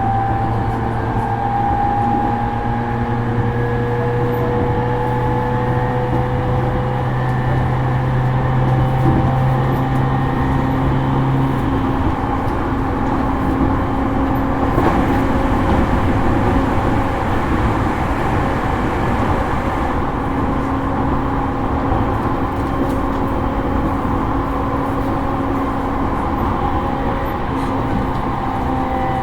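Running sound inside a JR East E231 series electric commuter train's motor car: a steady rumble of wheels on rail with the traction motors' and inverter's whine heard as several level tones. A low hum drops out about twelve seconds in while the higher tones drift slowly.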